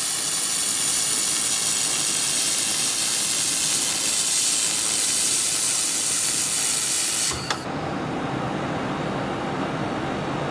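Handheld laser welding gun working, a steady high hiss of shielding gas and the weld for about seven seconds, then it stops and a duller, lower rushing noise carries on.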